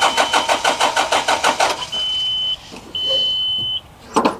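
John Deere 310G backhoe's diesel engine being cranked by the starter in rapid, even pulses without catching, its fuel system not yet primed after fuel pump work. The cranking stops about two seconds in, and a steady high-pitched warning beep then sounds twice.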